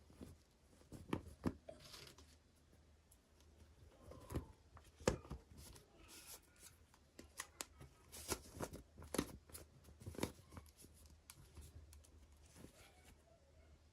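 Hands unboxing small toys and their plastic and paper packaging: faint, irregular clicks, taps and short rustles.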